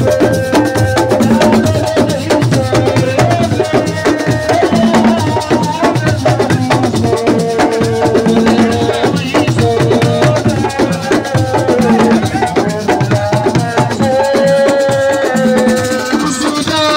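Live assiko music: fast, dense drumming with shakers rattling, and a held melody line running over the rhythm.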